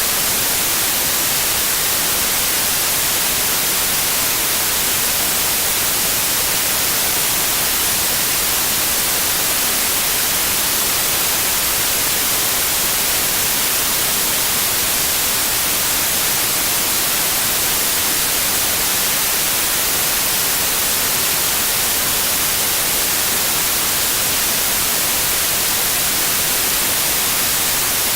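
Steady, unbroken white noise: an even hiss, brightest in the treble, with no changes or events.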